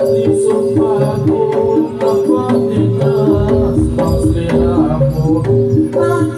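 Javanese gamelan music accompanying a Samboyo dance: hand drums beat over a steady, evenly repeating pattern of short pitched metal notes and a held tone.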